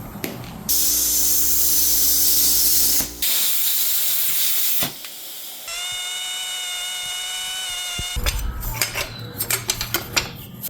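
Workshop tool noise: a loud hiss with a low hum under it, a second shorter hiss, then a steady high-pitched whine from a small motor for about two and a half seconds, followed by a run of clicks and clatters.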